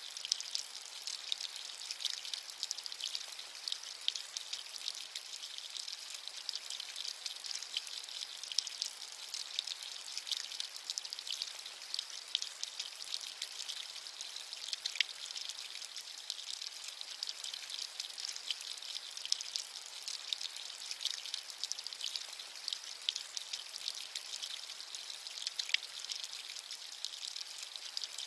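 Steady rain falling, a bright hiss thick with many small drop ticks and almost no low rumble.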